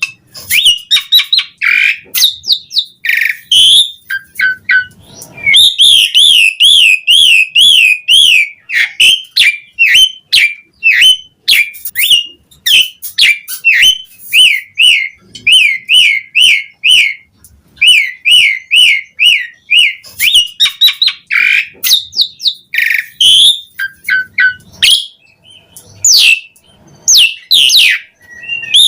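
Javan pied starling (jalak suren) in full, continuous song: runs of quick, wavy whistled notes repeating several times a second, mixed with sharp clicks, chatter and harsh calls.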